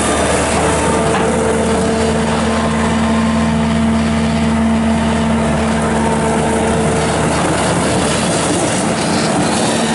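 Bobcat S650 skid steer's Kubota V3307 diesel engine running steadily, its pitch shifting slightly a couple of times as engine speed changes.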